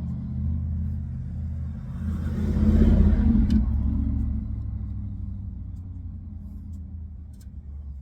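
A motor vehicle's low engine rumble that swells to its loudest about three seconds in, then slowly fades away, like a vehicle passing by.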